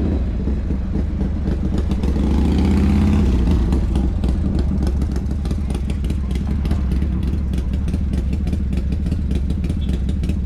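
A vehicle engine idling close by, with a brief rise in revs about two to three seconds in, then settling back to a steady idle.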